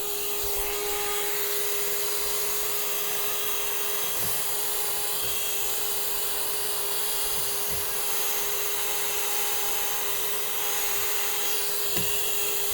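A vacuum cleaner running steadily with a constant whine and hiss as it cleans the piano's keybed, with a few soft knocks of the nozzle against the wood.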